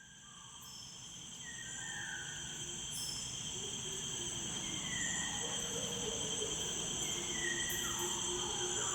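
A steady, high-pitched chorus of insects, such as crickets, fading in from silence. A few short calls of other animals are scattered over it.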